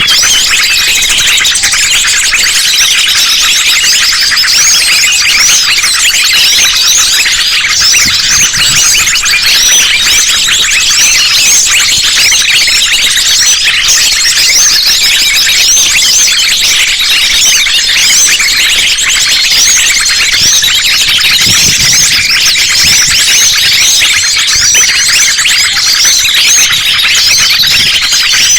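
A dense chorus of small birds, sunbirds and other small songbirds, calling all at once: high, quick chirps and trills that overlap without a break, played as a bird-lure recording to draw wild birds in.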